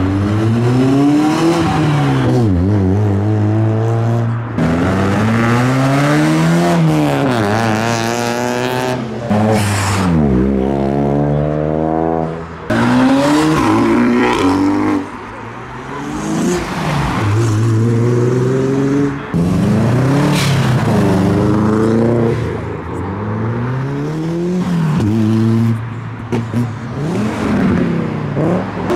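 Modified cars accelerating away one after another, their engines revving up and dropping back again and again, each climb in pitch broken off by a gear change.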